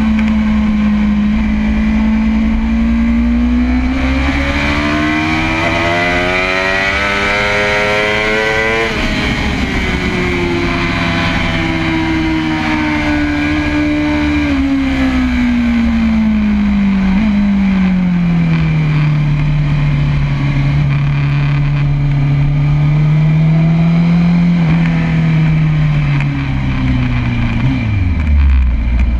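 Kawasaki ZX-10RR's inline-four engine from on board at track speed, with wind noise. The revs climb hard from about two seconds in to an upshift near nine seconds, fall away from about fourteen seconds and settle lower, then drop sharply near the end as the throttle closes.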